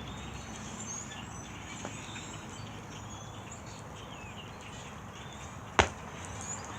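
A flock of birds chirping, many short calls overlapping, over a steady outdoor hiss. One sharp click about six seconds in.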